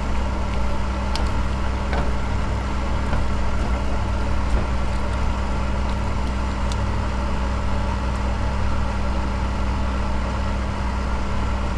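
Steady electric motor hum of a kitchen appliance, a low drone with a few steady higher tones and occasional faint ticks.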